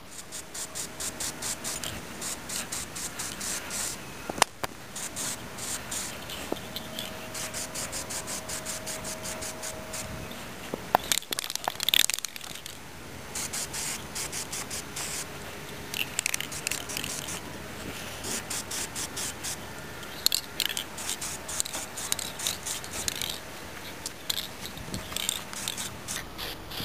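Aerosol spray-paint can hissing in a series of passes lasting a few seconds each, with short pauses and a few clicks between them, as a second coat is sprayed onto a minibike fender.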